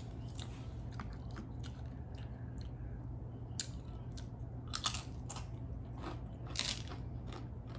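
Close-miked biting and chewing of a crunchy hard-shell taco, with scattered crisp crunches over a low steady hum.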